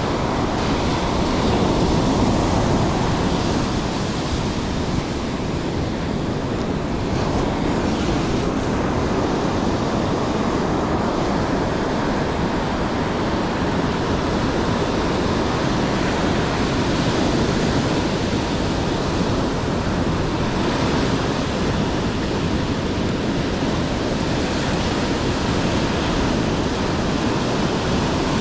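Steady rush of surf and sea, with wind buffeting the microphone.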